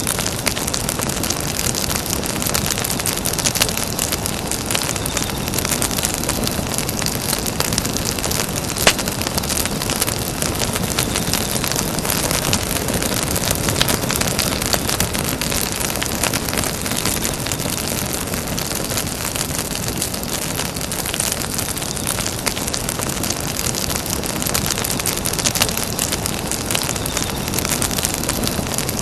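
Campfire burning: a steady rushing hiss of flame with dense crackling and a few louder pops, the sharpest about nine seconds in.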